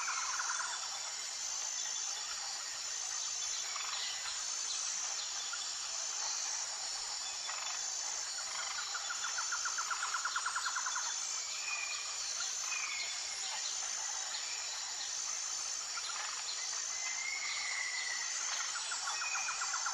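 Natural outdoor ambience: a steady, high-pitched insect chorus with an evenly pulsing high note throughout. A lower, rapid trill comes in twice, about nine seconds in and again near the end, and short chirping calls sound between them.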